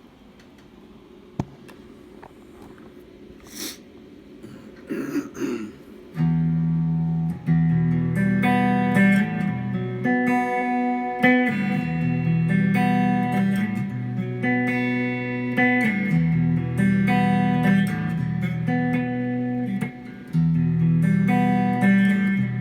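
Guitar being played: a few faint clicks and handling noises, then from about six seconds in chords ring out one after another and are let sustain, with short breaks between some of them.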